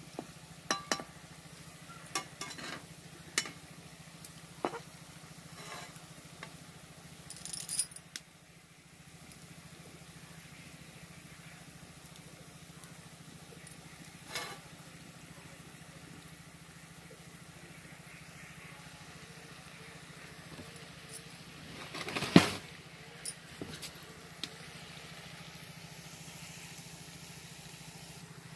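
Gram-flour pakoras deep-frying in oil in a steel kadhai, a steady low sizzle, with a slotted metal spoon clinking and scraping against the pan as they are turned. The clinks come often in the first third, once near the middle, and loudest about three-quarters through.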